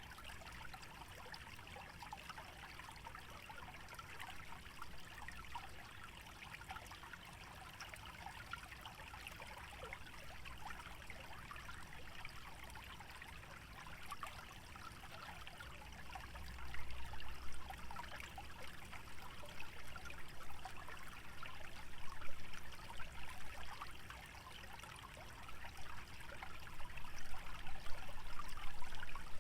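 Shallow stream trickling and burbling steadily over a wetland bed. Low gusts of wind swell several times in the second half.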